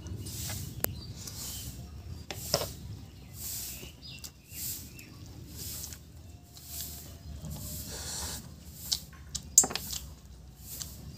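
A person eating chicken curry and rice by hand, with wet chewing and lip-smacking sounds coming about once a second and a few sharp clicks.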